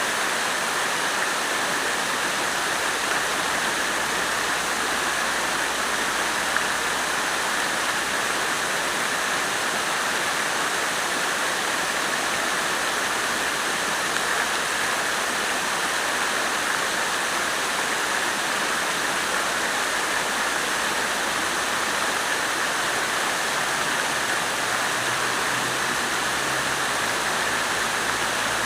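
Water fountain splashing steadily: a constant, even rush of falling water.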